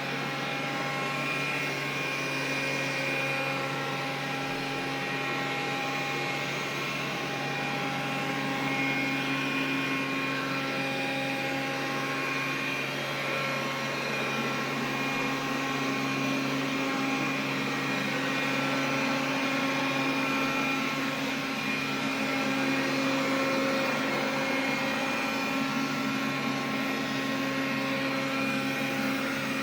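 Xiaomi vacuum cleaner running steadily, a motor hum with several steady whining tones over it, some coming and going; the extraneous noise the owner is checking the machine for.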